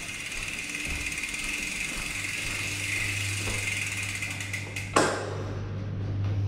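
Rapid, steady ticking of a Silverback Stride bicycle's rear freewheel hub as the bike is wheeled along without pedalling. It stops about five seconds in with a single sharp knock as the bike halts.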